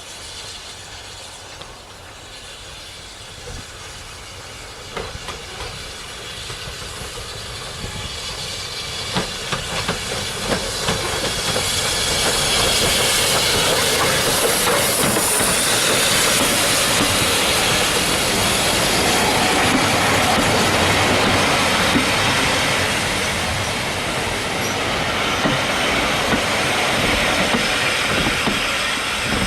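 Train carriage running along the track, its wheels clacking over the rail joints, with a steady rumble beneath. It grows louder over the first dozen seconds as the train picks up speed, then runs on steadily.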